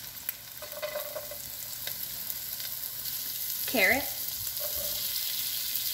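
Oil sizzling in a hot wok as chopped green beans go in on top of scrambled egg. The sizzle is an even hiss that grows louder over the first couple of seconds, with a few light clicks.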